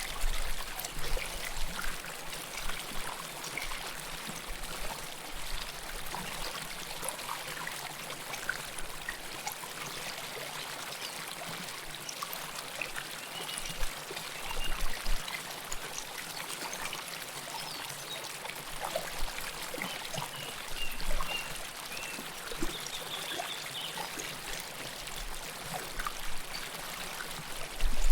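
River water flowing close up: a steady rush with trickling and splashing, and a few brief low thumps.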